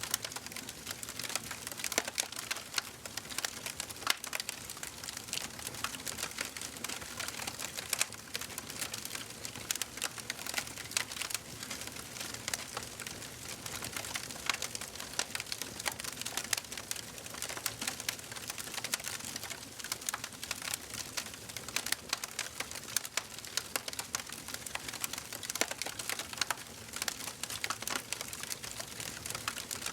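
Wood fire crackling in a fireplace: a dense, irregular stream of small sharp pops and snaps over a soft hiss of burning.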